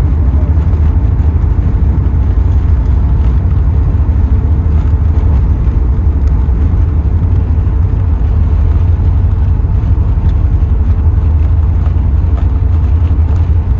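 Steady, loud low rumble of engine and airflow noise inside an Airbus A380 cabin.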